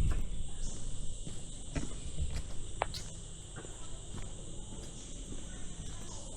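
A steady jungle insect chorus making two continuous high-pitched drones. Footsteps thud on the trail, heaviest in the first couple of seconds, with scattered small clicks.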